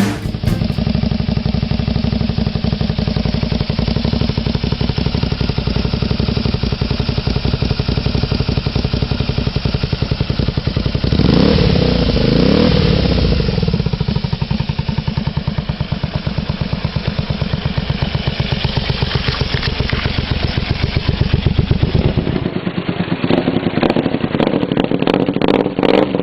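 Honda VT250 V-twin motorcycle engine idling and being revved, with a long rise and fall in revs about halfway through and another shortly before a cut. After the cut, a second recording of the bike revving.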